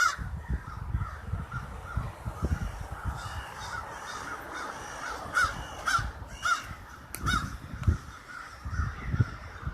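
A huge flock of crows cawing overhead, many calls overlapping without pause, with louder single caws from birds close by every second or so.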